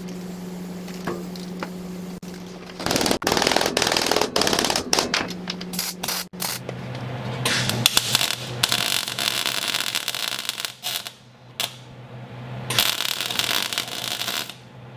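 Wire-feed welding arc crackling in three runs of a few seconds each, with short pauses between, over a steady low electrical hum.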